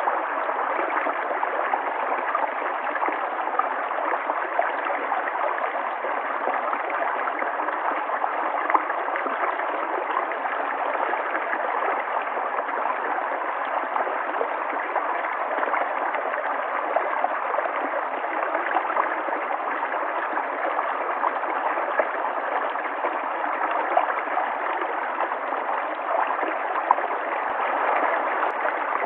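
River water flowing and gurgling steadily over rocks, with small splashes flickering through it.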